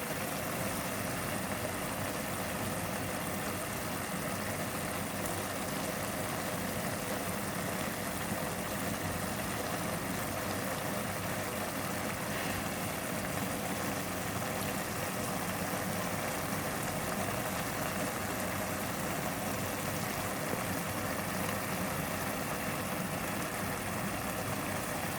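Chicken and potato filling cooking in a pan on the stove: a steady, even hiss and hum that does not change.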